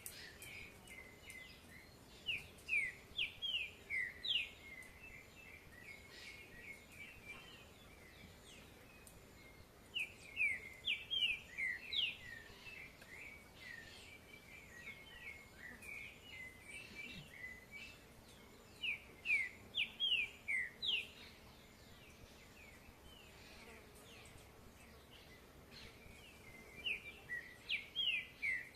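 A songbird singing in loud bursts of quick rising and falling notes, one burst about every eight seconds, with softer bird chirping between them.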